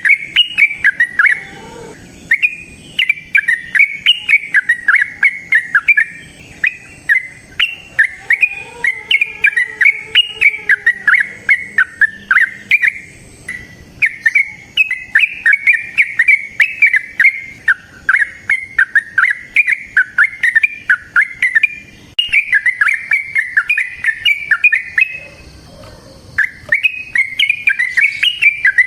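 Yellow-vented bulbul (trucukan) singing its long, rapid warbling song ('ropel'), in runs of quick chirping notes several seconds long broken by a few short pauses.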